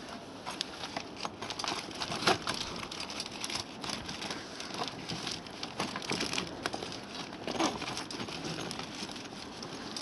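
Polythene polytunnel cover crackling and rustling in gusty wind, with a steady run of small irregular ticks and crinkles.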